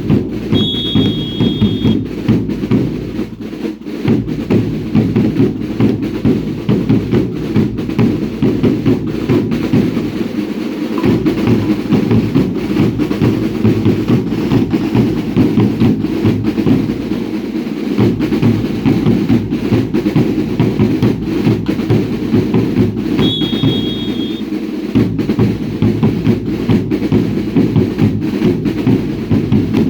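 Drums of a baile indio dance troupe beating a steady, driving rhythm of dense regular strokes. A short, shrill two-tone whistle sounds about half a second in and again about 23 seconds in.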